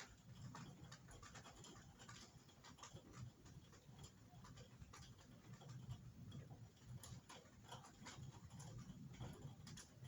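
Faint, irregular ticking and patter of raindrops.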